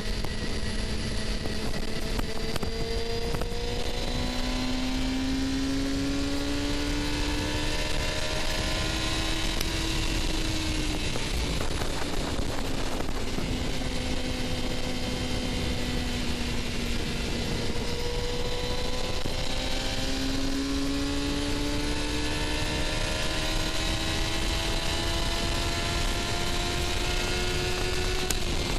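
Suzuki GSX-R750's inline-four engine running under way. Its pitch rises slowly for a few seconds, eases back down, then climbs again near the end, over a steady rush of wind noise.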